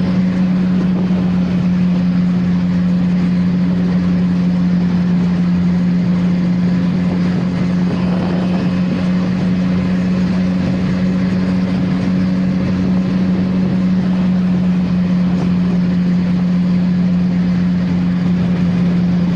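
CFMoto 675NK inline-three engine on its stock exhaust, running at steady revs while the bike cruises, with an even rush of riding noise underneath.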